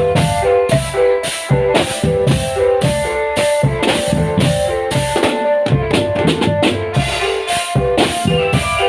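Marching drum band playing: drums beat a steady rhythm under a pitched melody line, with a quick run of rapid drum strokes about six seconds in.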